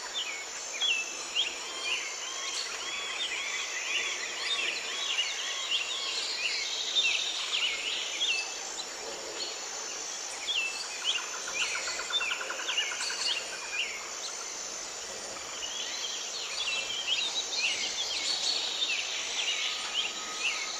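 Many small birds chirping and twittering over a steady high insect drone, with a short pulsed trill about halfway through.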